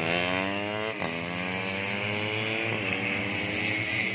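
A 150cc four-stroke underbone race motorcycle engine revving hard under acceleration. Its pitch climbs, drops sharply at a gear change about a second in, then climbs again and drops at another shift near the three-second mark.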